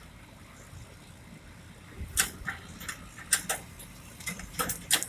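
Sharp, irregular metal clanks and knocks, about a dozen, starting about two seconds in, over the steady low hum of a machine running.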